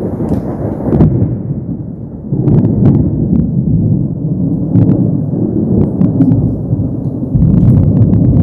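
A long, loud roll of thunder rumbling low, swelling about two seconds in and again near the end, with a few faint crackles.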